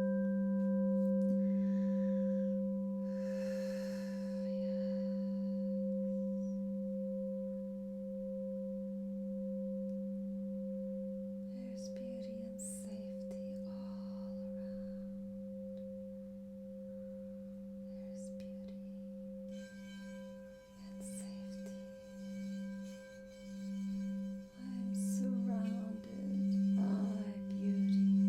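A singing bowl ringing with a low, steady tone and several higher overtones after being struck. From about twenty seconds in the tone starts to pulse, swelling and dipping about once a second and growing louder toward the end.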